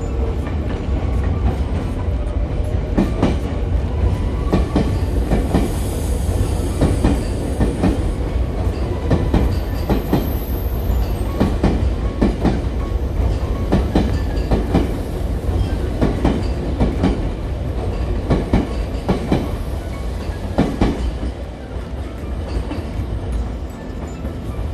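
Electric commuter train running through the station's pointwork, its wheels clacking again and again over rail joints and switches over a steady low rumble.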